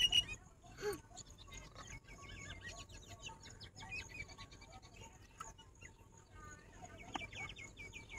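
Background birdsong: many short high chirps repeating throughout, with a brief lower call about a second in.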